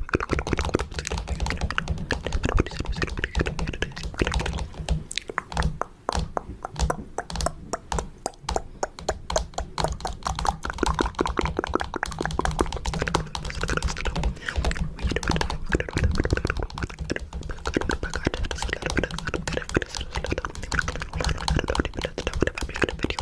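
Fingernails tapping rapidly on a camera, a dense stream of quick clicks.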